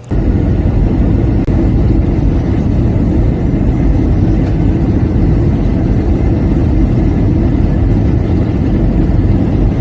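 Steady jet airliner cabin noise from engines and airflow during the descent, heard from inside the passenger cabin, heaviest in the low range.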